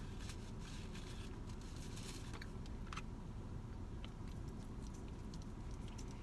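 Faint chewing and wet mouth sounds from someone eating spaghetti, then small clicks and scrapes as a plastic fork twirls pasta in a plastic takeout bowl, over a steady low background hum.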